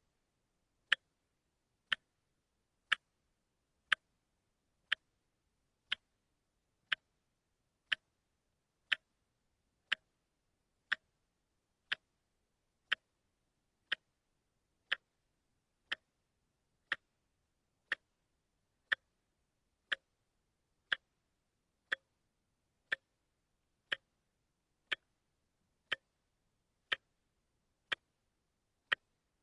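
A watch ticking steadily once a second, each tick a short, crisp click. The one-tick-a-second beat is typical of a quartz movement.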